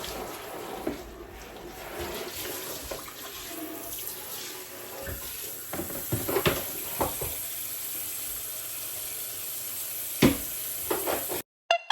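Water running from a tap into a sink, with scattered clinks and knocks in the middle and a sharper knock about ten seconds in. It cuts off abruptly shortly before the end.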